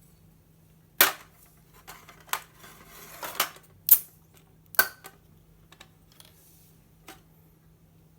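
Hard cooking gear being handled: a series of irregular sharp clacks and clicks of hard objects knocking together. The loudest come about a second in and again around four and five seconds, with fainter ticks after.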